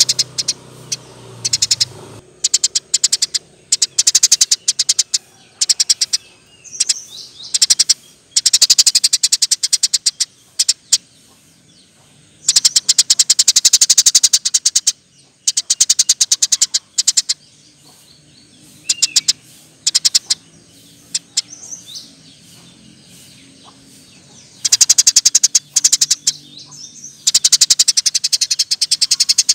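Eurasian tree sparrow calling in fast, rattling runs of sharp, high chirps, each run lasting a second or two, with short pauses between.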